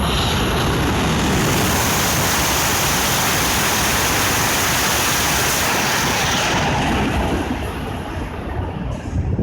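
Tohoku Shinkansen bullet train passing at high speed without stopping: a loud rush of air and rail noise that starts suddenly, holds for about six seconds, then dies away.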